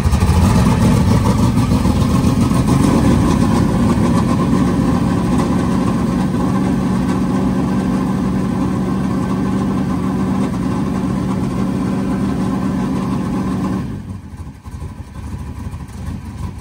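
Super stock race car's carbureted engine running at a steady idle in the open engine bay, then shutting off abruptly about 14 seconds in.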